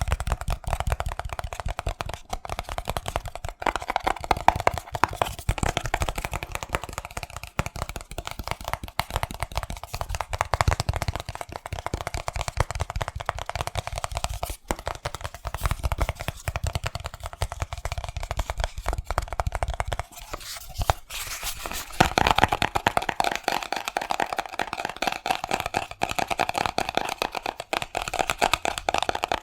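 Fast, aggressive fingertip and fingernail tapping on a hard object, a dense run of sharp taps. About two-thirds through, the tapping moves to a different object with a brighter, more ringing tone and less thud.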